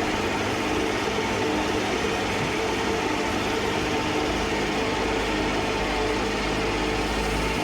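Sierra 6000 logger baler running: a steady machine drone with a constant whine on top, without change in speed.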